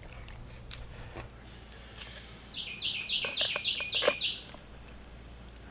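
A bird calls a fast run of about seven down-slurred notes, roughly four a second, over a steady high insect chorus. A few light knocks sound under it.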